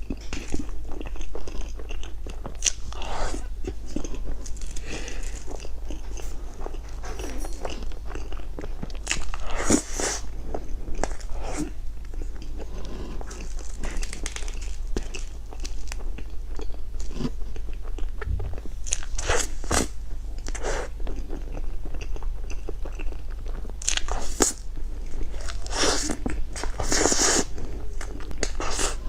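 Close-miked mouth sounds of eating soft cream-filled cake: irregular wet chewing, biting and lip smacks, over a steady low hum.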